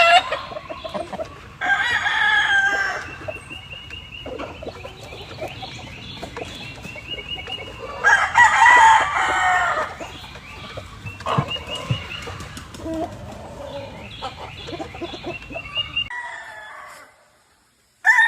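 Gamefowl roosters crowing, with two loud crows about two seconds and eight seconds in, and shorter crows and clucking from other birds in between. The sound drops out shortly before the end.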